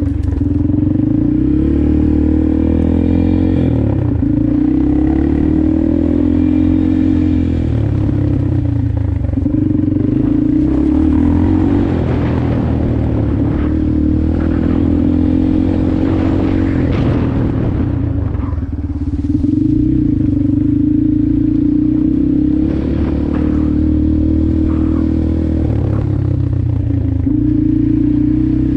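Motorcycle engine running while being ridden, its pitch rising and falling as the throttle is opened and closed, with some clattering and scraping over the engine.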